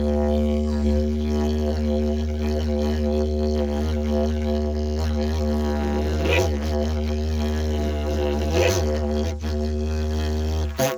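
Handmade PVC didgeridoo tuned to D playing a steady low drone. Two louder swells come in the middle, and the drone stops suddenly just before the end.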